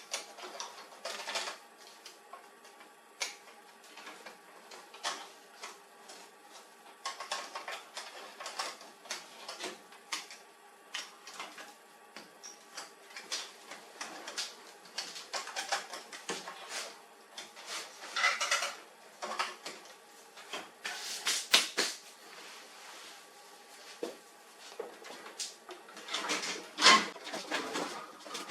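Irregular clicks, taps and short rattles of hard plastic and metal printer parts being handled and fitted, with a few louder clatters in the second half.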